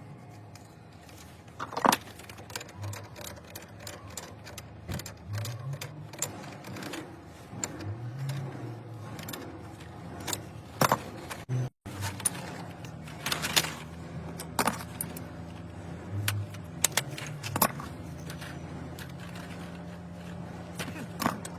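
Metal tools and fittings clinking and tapping during plumbing work on a central-heating manifold, in scattered sharp knocks, several louder ones coming close together in the second half.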